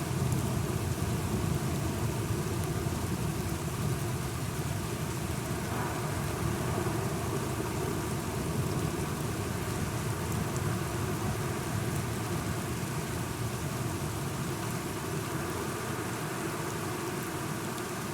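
Steady rain with a low rumble of distant thunder that slowly fades.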